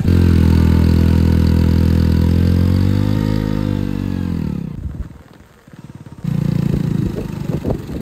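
Motorcycle engine running close by as the bike, carrying two riders, pulls away along a muddy track. Its note rises a little and falls again about three seconds in, drops away for about a second around five seconds, then comes back quieter with some clattering.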